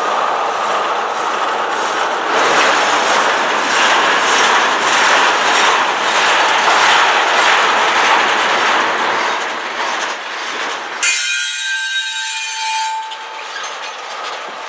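Cars of a freight train rolling past with a steady rumble and regular wheel clicks over rail joints. About eleven seconds in, the rumble cuts off sharply and a high, multi-toned squeal of steel wheels on rail rings for about two seconds, then fades.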